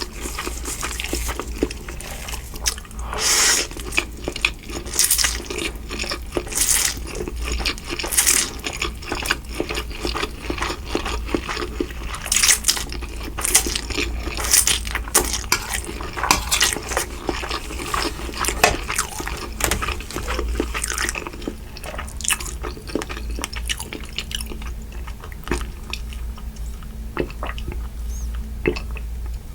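Close-miked eating: wet chewing and lip smacks of Mi Goreng fried noodles, a quick run of short wet clicks and smacks, over a steady low hum.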